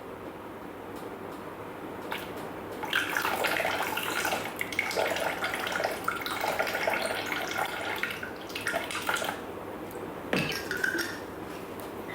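Rice wine vinegar poured from a bottle into the Thermomix mixing bowl: a stream of liquid splashing, starting about three seconds in and running for several seconds, with a shorter pour near the end.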